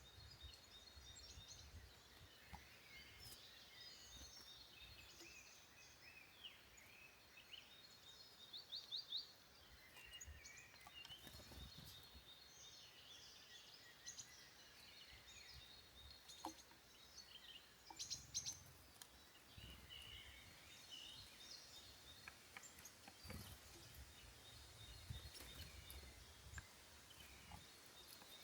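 Faint woodland birdsong: several small birds chirping and calling over a low outdoor background, with short quick series of sharp notes about nine seconds in and again around eighteen seconds.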